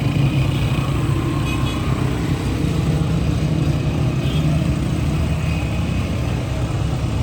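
Steady street traffic noise, dominated by the low hum of vehicle engines running.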